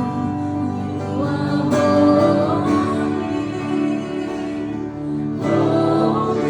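Acoustic worship music: an acoustic guitar playing under voices singing, with sung phrases swelling about a second in and again near the end.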